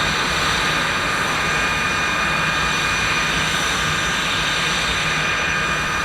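Aero L-39 Albatros jet's turbofan engine whining steadily at ground idle, several high steady tones over a low rumble, as the jet taxis in before shutdown.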